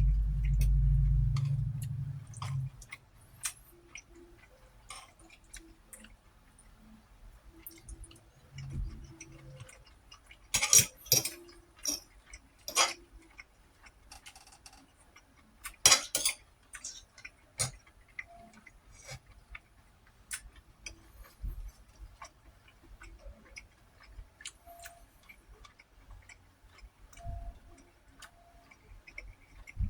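Close-up eating sounds: scattered clicks, smacks and clinks of chewing and of cutlery on a plate, with a few sharper clinks about a third of the way in and again about halfway. A low rumble opens it and fades out within the first two seconds.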